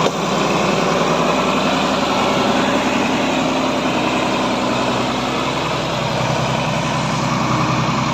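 BD50 bulldozer's diesel engine running steadily.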